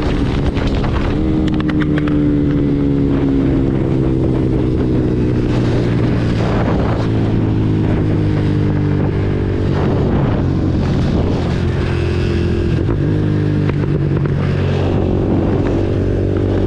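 KTM Duke 390 single-cylinder engine with an Arrow full-system exhaust running at highway speed, its note holding fairly steady with small shifts in pitch. Wind noise on the microphone underneath.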